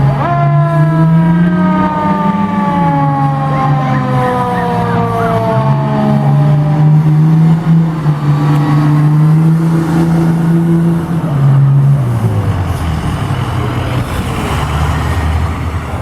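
Fire truck responding: its siren winds down slowly in pitch over the first several seconds while the truck's engine pulls hard, its low note holding steady and then dropping about twelve seconds in.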